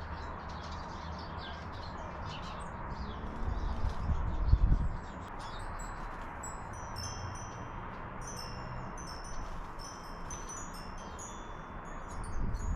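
Small garden birds singing: short, clear, high notes at several pitches, repeating and overlapping, thickest in the second half. A brief low rumble of wind on the microphone comes about four to five seconds in.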